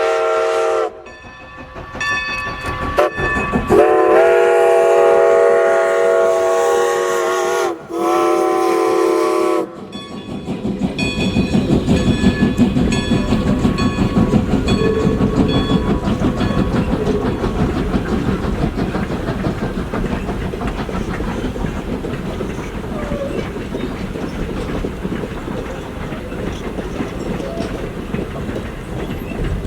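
Steam whistle of Strasburg Rail Road No. 90, a 2-10-0 steam locomotive, blowing several blasts: one ending just in, a short one, then two long ones, each sliding up in pitch as it opens. Then the train rolls past with a steady clickety-clack of wheels over rail joints, easing off slowly.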